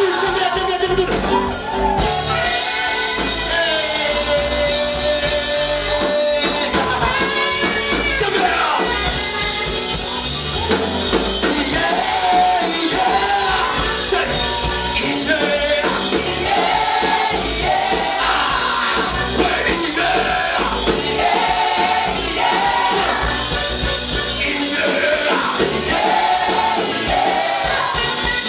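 Live praise-and-worship music: voices singing over a band with drums and bass.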